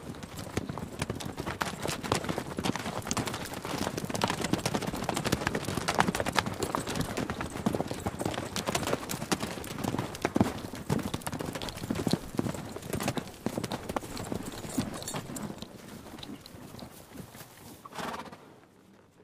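Horse hooves clopping in a dense run of hoofbeats that thins out toward the end, with horse whinnying.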